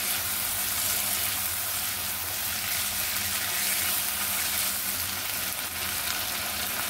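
Tomato-and-onion masala frying in butter and oil in a kadai: a steady, continuous sizzle as the tomatoes cook down.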